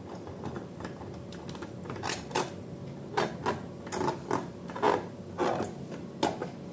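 Slime being worked by hand or stirred: irregular sticky squelches and crackles, starting about two seconds in and coming faster toward the end.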